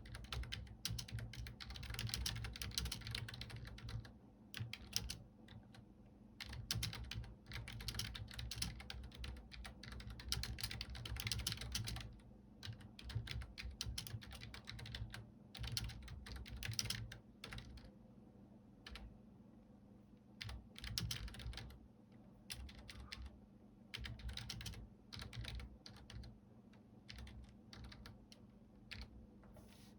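Computer keyboard typing: runs of fast key clicks, denser in the first half, then shorter bursts with pauses between them.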